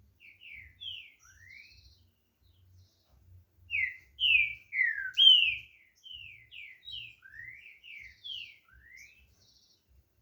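Green-winged saltator (trinca-ferro) singing: a string of clear whistled notes that slide down and up, soft at first, with a louder phrase in the middle, then soft again.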